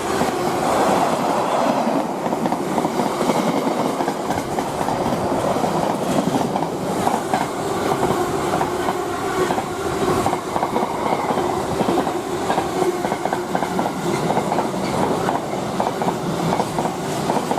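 Class 66-hauled Freightliner freight train passing steadily at speed, its wagon wheels clattering with a continuous run of clicks over the rail joints.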